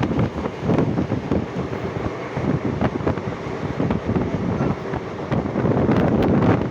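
Moving passenger train: wind buffeting the microphone over the steady rumble of the coaches, with irregular clicks and rattles throughout.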